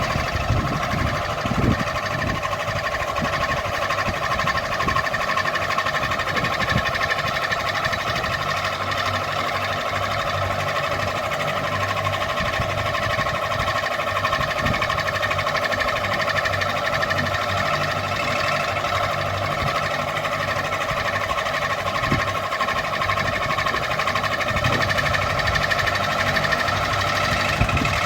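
Ceiling fan running steadily: a constant motor hum with a whine, and a few brief knocks now and then.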